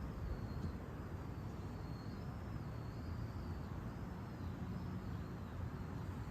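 Strong wind rumbling steadily on the microphone, with a faint high wavering tone above it.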